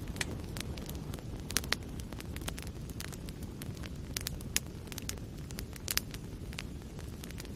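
Wood fire burning in a fireplace: a steady low rush under irregular sharp crackles and pops, a few louder snaps about a second and a half in, near the middle, and about six seconds in.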